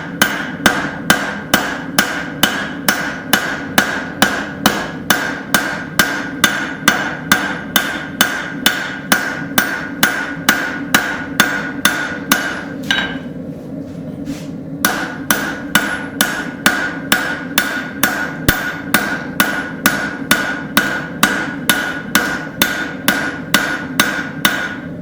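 Hand hammer striking a hot railroad spike on an anvil, drawing out and thinning the blade, in an even rhythm of about two blows a second with the anvil ringing between blows. The blows stop for about two seconds midway, then resume, over a steady low hum.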